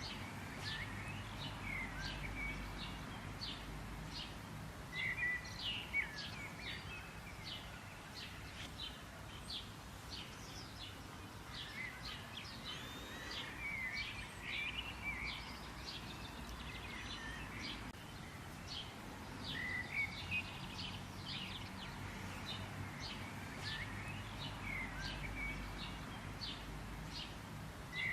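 Songbirds chirping and calling, with many short high chirps and brief warbles coming in clusters, over a steady low background rumble.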